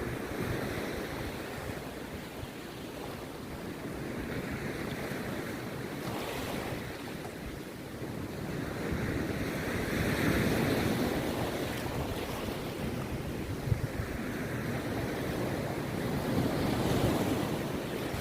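Rough sea surf breaking on a beach: a continuous wash of waves that swells loudest about ten seconds in and again near the end. A single brief knock sounds about fourteen seconds in.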